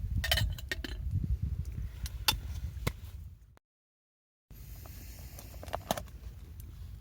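Light clinks and clicks of hard objects being handled, over a low rumble. The sound drops out completely for about a second midway.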